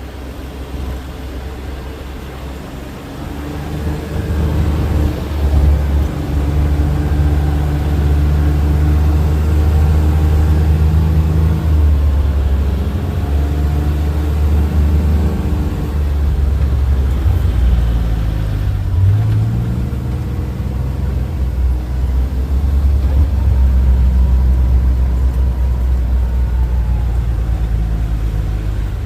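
A vehicle engine running under way, a steady low hum that builds up a few seconds in and shifts pitch again past the middle.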